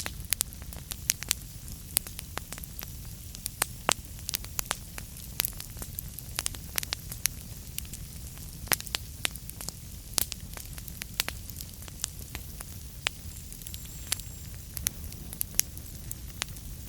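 Fire burning in a fireplace, crackling with frequent sharp, irregular pops and snaps over a steady low rumble of the flames.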